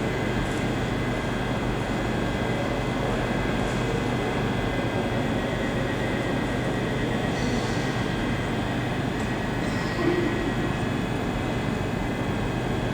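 Steady hum of electric trains standing at the station platforms, with a few fixed whining tones running through it.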